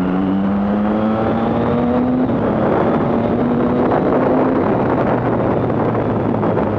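Triumph Street Triple 675's inline three-cylinder engine, through a Coffman's aftermarket exhaust, pulling under way with its pitch rising for about two seconds and then holding steady, under wind rush at the helmet microphone.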